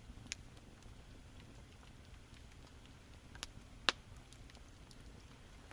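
Campfire crackling quietly, with a few scattered sharp pops of burning wood, the loudest about four seconds in.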